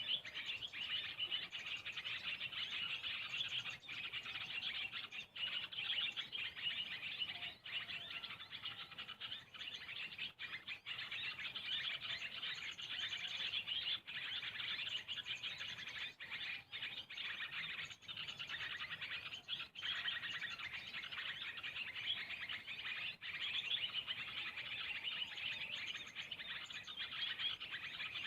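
Small birds chirping continuously, a dense stream of rapid high chirps with no pause.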